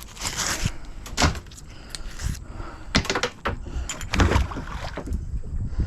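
Irregular knocks, clicks and scrapes from handling a fishing magnet loaded with nails and scrap metal, several sharp strikes a second or so apart.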